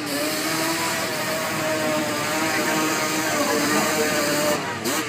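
Off-road vehicle engine held at high revs with a steady whine, easing off near the end.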